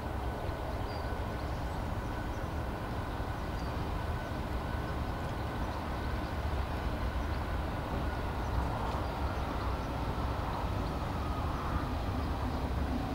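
A Class 66 diesel-electric locomotive's two-stroke V12 diesel engine running with a steady low rumble and a faint steady whine, slowly growing louder.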